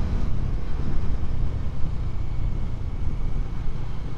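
Motorcycle riding along a road: the engine runs steadily under a heavy, gusting rumble of wind on the rider's microphone.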